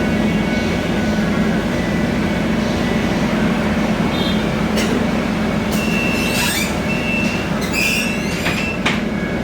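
Scania K320iA CNG city bus riding along, heard from inside the cabin: a steady engine and road drone, with short rattles and thin high squeaks from the body and fittings clustered past the middle.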